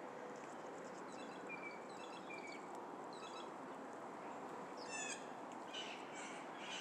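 Wild birds calling: several quick runs of short high chirps, then a louder, harsher call with a falling run of notes about five seconds in, followed by a few more chirps, over a steady outdoor hiss.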